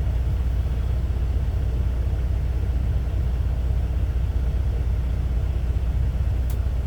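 Steady low rumble of an idling diesel semi-truck engine, with a faint click near the end.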